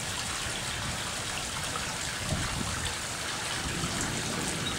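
Hail meltwater runoff running in a desert wash: a steady stream of rushing, trickling water.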